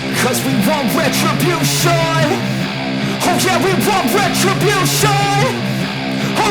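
Loud rock music with electric guitars and drums keeping a steady beat.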